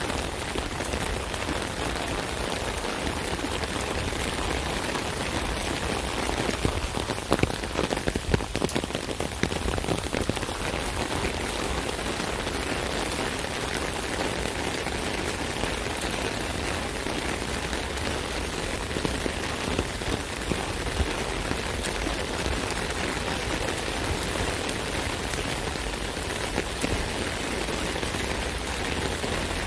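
Steady rain pattering on an umbrella canopy, a dense hiss of drops with a cluster of louder, heavier hits about seven to nine seconds in.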